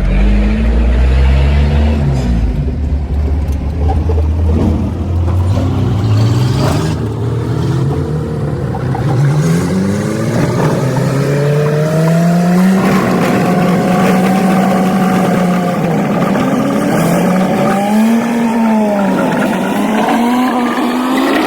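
Old truck's engine running under way, heard from inside the cab, its revs climbing and falling several times as it pulls and changes gear, with a dip and recovery around eighteen seconds in.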